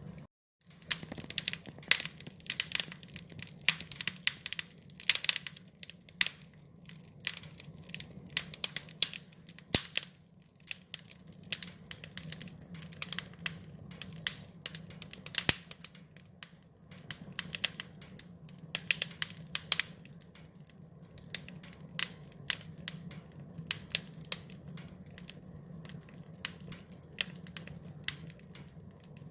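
Wood fire crackling, with irregular sharp pops and snaps coming in clusters over a steady low hum. The sound drops out briefly just after the start.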